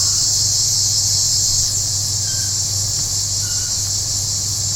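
A chorus of cicadas giving a loud, steady, high-pitched buzz without a break, with a few faint short bird chirps over it.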